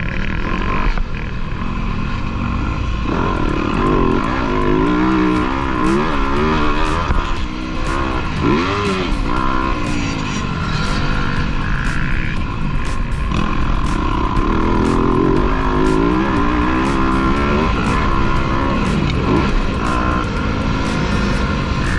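Motocross dirt bike engines revving up and down, their pitch rising and falling again and again, with short sharp clicks throughout.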